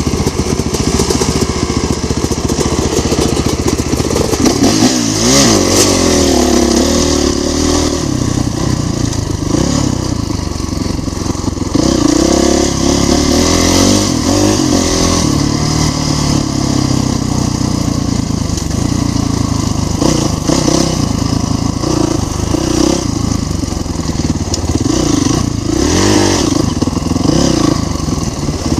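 Dirt bike engine running under changing throttle, its pitch rising and falling again and again as it is ridden.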